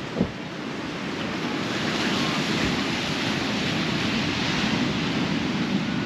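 Sea surf washing onto the shore, swelling louder about a second or two in, with wind buffeting the microphone. A short thump right at the start.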